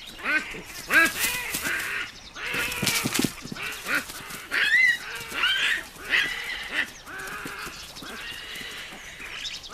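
Olive baboons calling and screaming in a troop squabble: many short, overlapping shrill calls that rise and fall in pitch, with harsh screeches about one and three seconds in. The calls thin out and grow quieter in the last few seconds.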